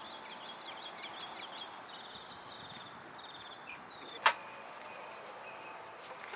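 Small birds chirping in quick repeated trills over a steady outdoor background, with one sharp knock about four seconds in.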